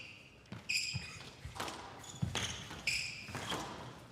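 Squash rally: the ball hits rackets and walls about every half second, with several short, high squeaks of shoes on the court floor.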